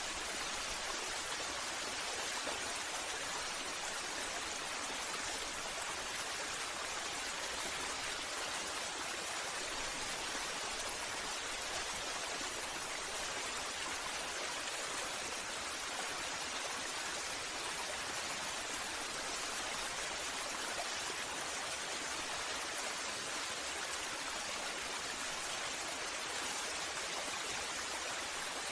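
Waterfall: a steady, unbroken rush of falling water, mostly hiss-like and without distinct drops or events.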